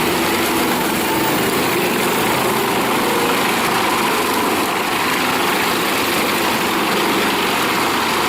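Engine of a wood chipper running steadily.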